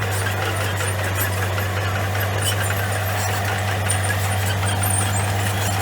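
Komatsu bulldozer's diesel engine running at a steady low drone, with scattered short, faint high-pitched squeaks and clinks over it.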